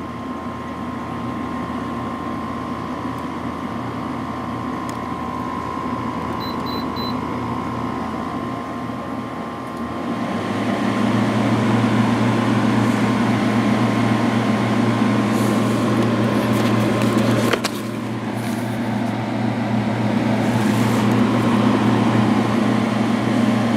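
Window air conditioner (8000 BTU LG) running with its fan on low; about ten seconds in the compressor kicks on, adding a louder, steady low hum that continues to the end, with a brief click near the end.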